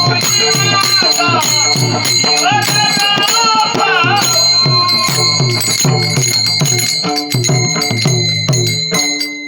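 Marathi abhang devotional music: a melodic line, presumably the girl's singing voice, over steadily ringing hand cymbals and a regular drum beat. The music fades out about nine seconds in.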